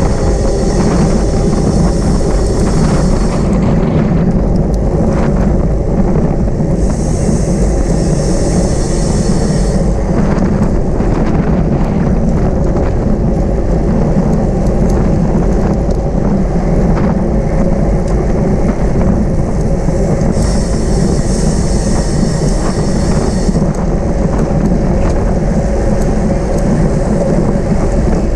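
Heavy wind buffeting on the microphone of a camera riding along in a bicycle criterium, a loud steady rumble. A brighter hiss comes in three times, each for about three seconds.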